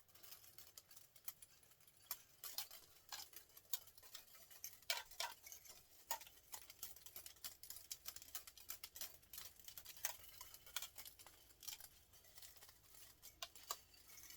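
Faint, irregular small clicks and taps of metal parts being handled and worked during the teardown of a printer motor.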